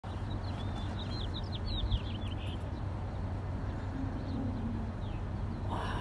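A small bird singing a quick run of high chirps in the first couple of seconds, over a steady low rumble.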